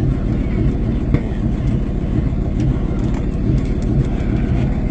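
Tow truck engine idling with a steady, rough low rumble. The exhaust is loud, with a muffler in need of repair.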